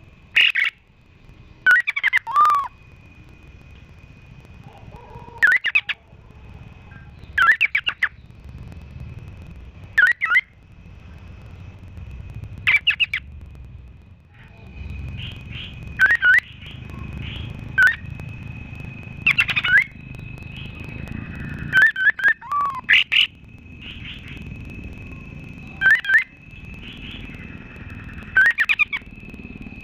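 Layered songbird recording mixing cililin, canary and kapas tembak: loud, sharp, short calls about every two to three seconds over a steady, high, thin trill.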